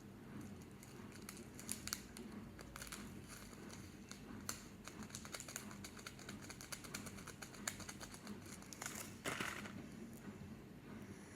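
Slime being worked by hand: faint, irregular crackling with small clicks and pops, and a longer, louder crackle about nine seconds in.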